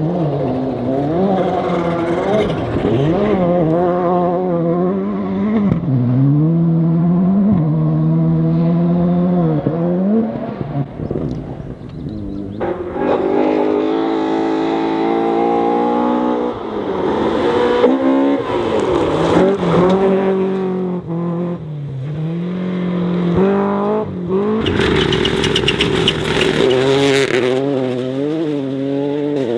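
Rally cars on forest gravel stages, engines revving hard and changing gear, the pitch repeatedly climbing and dropping as the cars accelerate and brake. The sound cuts between several cars. Near the end there are a couple of seconds of loud hissing rush over the engine.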